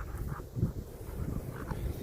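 Strong wind buffeting the microphone in uneven low gusts.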